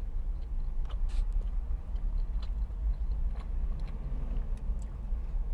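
Close-up chewing of a mouthful of bacon cheeseburger, with faint wet mouth clicks, over a steady low hum.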